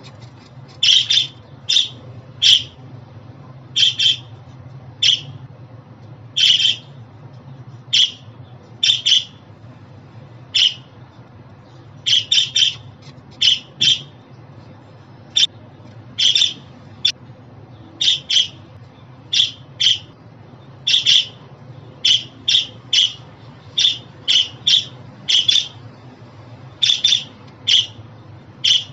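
Budgerigar calling: a steady run of short, sharp chirps, about one a second and often in quick pairs, over a faint low hum.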